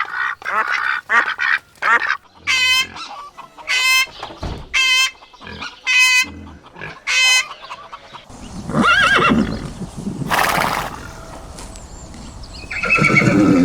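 Waterfowl calling: a quick run of quacks, then five separate honking calls about a second apart, followed by a rush of noise and more calls near the end.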